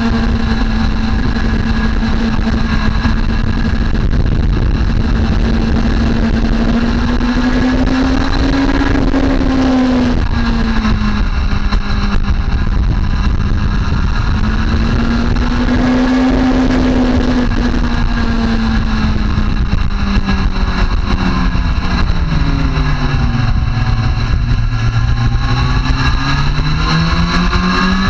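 Sport motorcycle engine running on a racetrack, its pitch rising and falling as the throttle opens and closes through the corners. It drops lowest for a few seconds near the end, then climbs again, over a steady rushing noise.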